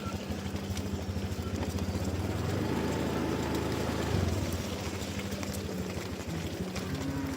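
A small engine running steadily with a fast, even pulse, swelling louder for a couple of seconds mid-way and then settling back.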